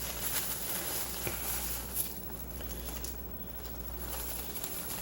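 Faint rustling and light taps as a plastic deli-meat bag is folded back up by hand, with a couple of small clicks, over a steady low hum.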